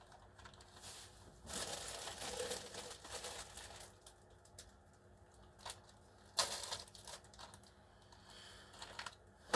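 Close handling noise: rustling and crinkling, with scattered light clicks and knocks of small hard objects being picked up and set down.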